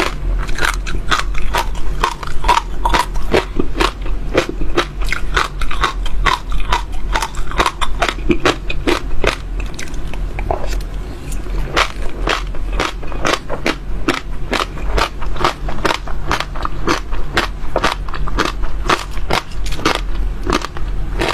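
Close-miked chewing of crunchy seeds: a steady run of sharp crackling crunches, about three to four a second, as the seeds break between the teeth. The crunching eases briefly about halfway through.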